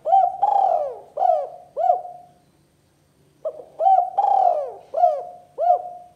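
Spotted dove cooing: two phrases of about five coos each, the second starting about three and a half seconds in.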